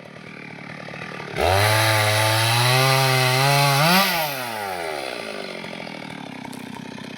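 STIHL MS 382 two-stroke chainsaw: idling, then about a second and a half in the throttle opens and it runs loud at high speed, pitch creeping up for about two and a half seconds. The throttle is then released and the engine winds down to idle.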